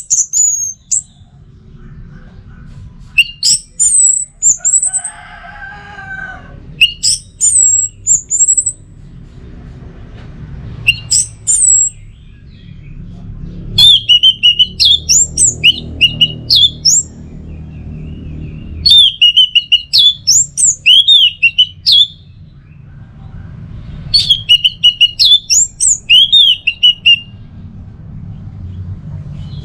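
Orange-headed thrush (anis merah) singing loud bouts of quick, sweeping whistled notes, each bout a second or three long with short pauses between. A low steady rumble runs underneath, and a different, lower call sounds briefly about five seconds in.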